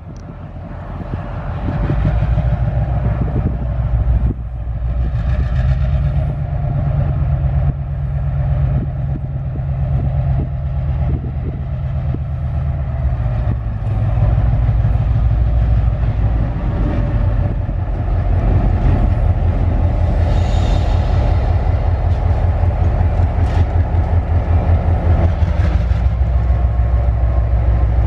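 Train running past: a steady heavy rumble that grows louder toward the end.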